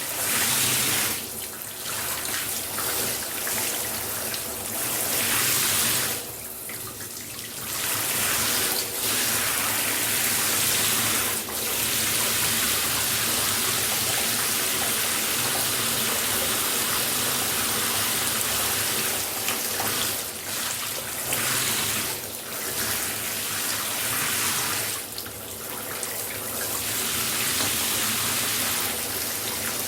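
Shower water spraying steadily, a dense hiss of falling water, which thins briefly a few times, most clearly about six to seven seconds in and again near twenty-five seconds.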